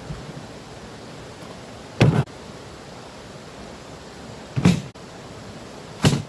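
Three loud thumps, a little over two seconds, about four and a half seconds and about six seconds in, over a steady background hiss.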